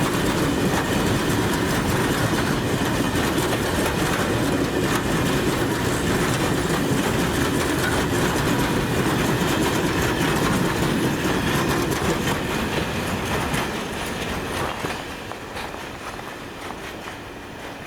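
Train passing close by: a steady loud rolling noise of wheels on rails, which fades from about thirteen seconds in as the train moves away.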